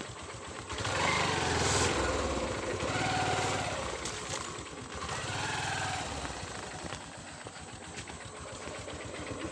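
Small vehicle engine revving up three times, each swell lasting a second or two and dropping back in between, then settling.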